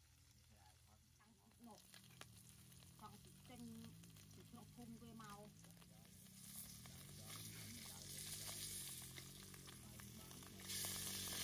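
Food sizzling as it fries in a pan, faint at first and growing louder, with a sudden jump in loudness near the end.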